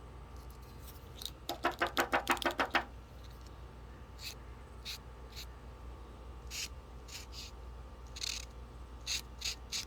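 Paint marker being shaken, its mixing ball rattling in a quick run of about ten clicks, then short scratchy strokes of the marker tip as it struggles to lay down paint.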